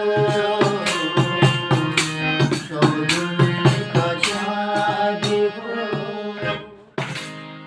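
Instrumental song accompaniment: tabla strokes in a steady rhythm under held melody notes, fading down toward the end. A final struck chord lands about seven seconds in and rings away.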